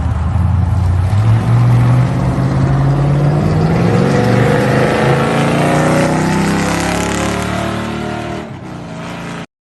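A car engine running hard and climbing steadily in pitch as it accelerates, then easing off; the sound cuts off abruptly near the end.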